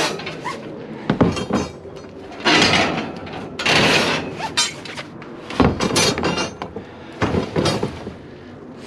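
Long metal poles being handled in a dumpster: irregular clattering and scraping, with sharp knocks about a second in and again past the middle.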